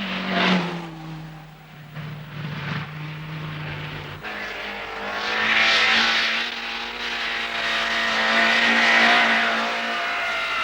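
Rally car engines on a snowy stage. One car flashes past about half a second in and an engine holds a steady note for a few seconds; then from about five seconds in an engine runs louder and harder, with tyre and snow noise.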